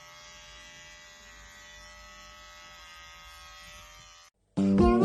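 Steady, faint electric buzz and hum of a small motor that cuts off about four seconds in. After a brief silence, loud music with plucked guitar starts right at the end.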